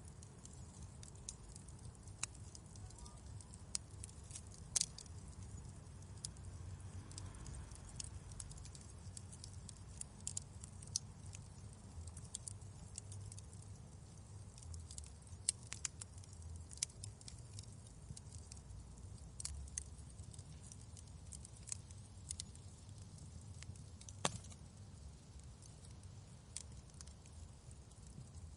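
Wood fire crackling in a fireplace: scattered sharp pops and snaps, a couple of them louder, over a low steady rumble.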